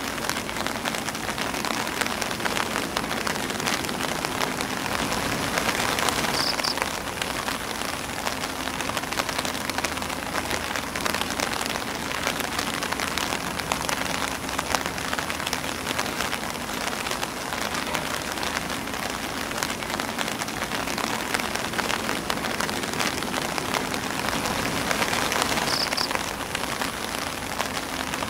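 Rain falling steadily on an umbrella and on grass leaves: a dense patter of individual drops over an even hiss, swelling slightly twice.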